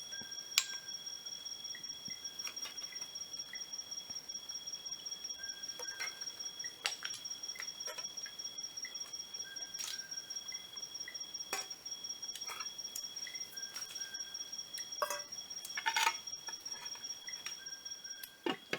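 Insects trilling steadily in a fast pulsing high-pitched drone at two pitches, with a short repeated call every second or two. Scattered sharp clicks and knocks sound over it, the loudest just after the start and a cluster near the end.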